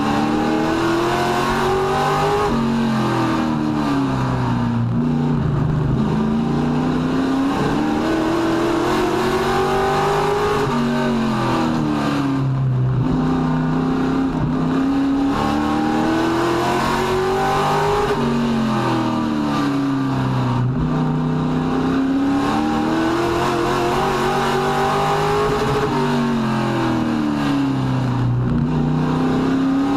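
Race truck engine at racing speed, its pitch climbing and then dropping about every seven to eight seconds as it accelerates and lifts off again, lap after lap.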